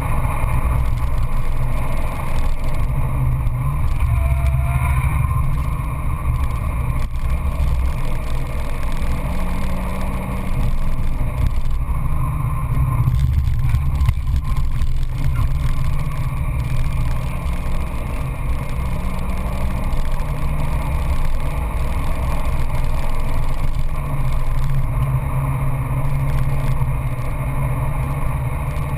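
Peugeot 206 GTI S16's four-cylinder engine running hard under a flat-out lap, heard from inside the cabin together with steady road and wind noise.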